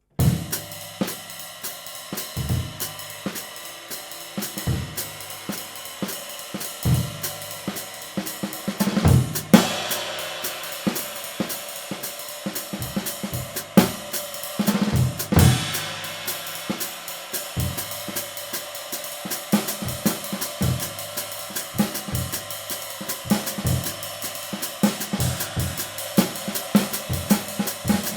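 Drum kit groove featuring a handmade 20-inch B20 bronze medium-light ride cymbal, ridden with steady strokes over kick and snare drum. There are a few louder accents about nine, fourteen and fifteen seconds in.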